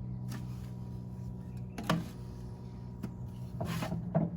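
A few sharp knocks and clatters of hard objects being handled, over a steady low hum.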